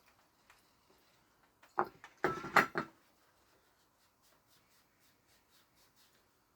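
A brief clatter of metal parts being handled and set down on a workbench during work on a robotic mower's wheel-motor housing: a handful of sharp knocks with a short metallic ring about two seconds in, then only faint light ticks.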